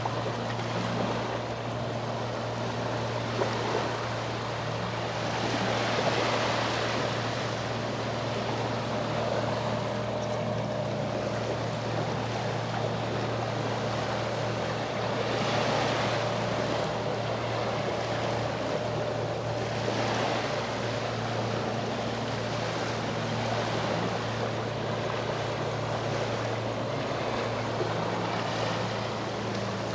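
Sea waves washing ashore, swelling and receding, loudest about 6 and 16 seconds in, over the steady low hum of a boat engine.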